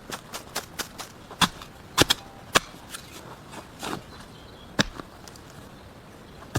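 Irregular sharp snaps and knocks, a dozen or so in the first five seconds, the loudest about two and two and a half seconds in, then only faint ticks.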